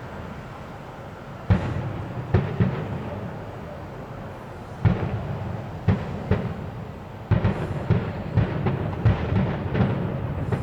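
Fireworks shells bursting overhead: single heavy bangs at first, then a quicker run of about ten bangs in the last few seconds, each with a low rumbling echo.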